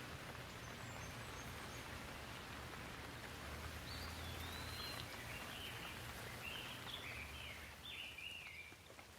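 Steady hiss of light rain. From about four seconds in, a bird sings a run of short, wavering chirping phrases over it.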